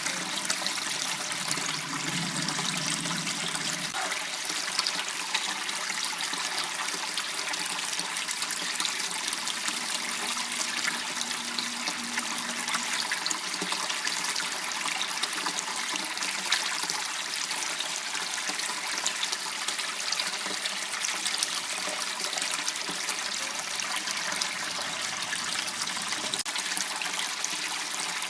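Steady sound of water flowing in a small waterway, an even, unbroken rush of running water.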